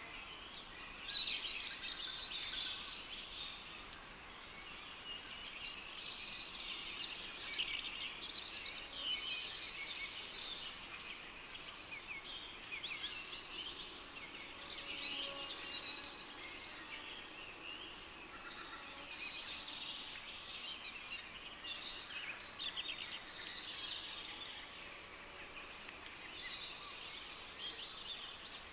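Tropical rainforest ambience: a cricket chirps in a steady, even rhythm of about three chirps a second over a busy chorus of overlapping bird calls. The chirping pauses briefly near the end, then starts again.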